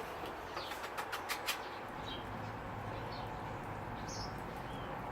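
Outdoor ambience with a few short, high bird chirps scattered through it. A run of light clicks or taps comes in the first second and a half.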